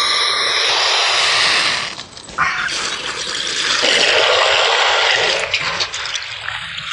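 Water running and splashing, easing off briefly about two seconds in before running strongly again.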